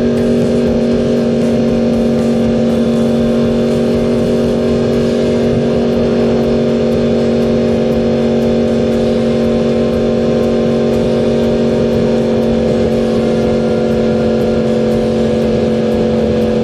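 Yamaha R1 inline-four sport-bike engine running at steady revs while cruising, its note holding one pitch throughout, with wind rumble on the helmet microphone underneath.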